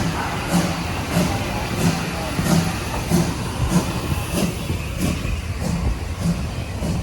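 Steam-hauled train running, with an even beat about three times every two seconds.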